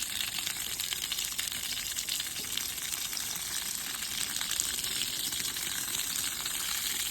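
Steady hiss of water spraying from a hose, as in wetting down concrete to cure it.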